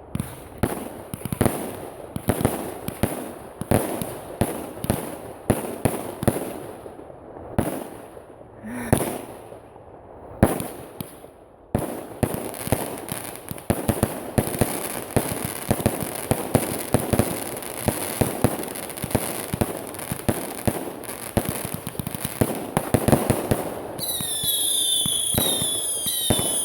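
Fireworks going off: a rapid, irregular series of sharp bangs and crackling reports. Near the end several falling whistles from whistling shells join the bangs.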